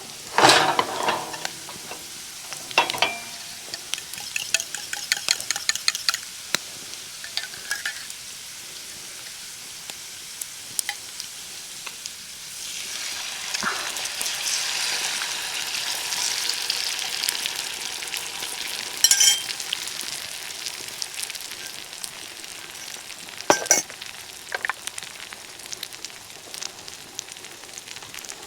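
Food sizzling in a frying pan, with the clicks and knocks of a utensil against the pan now and then; the sizzle grows louder about thirteen seconds in and eases off again some ten seconds later.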